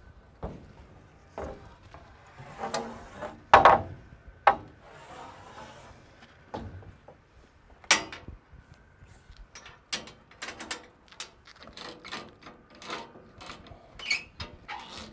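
Lumber boards being handled: wood knocking, clattering and scraping, with the loudest clatters a few seconds in and a run of lighter knocks near the end.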